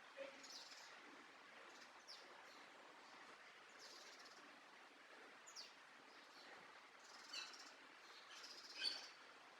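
Faint songbird chirps: short high calls coming singly every second or two over a low steady hiss, the strongest near the end.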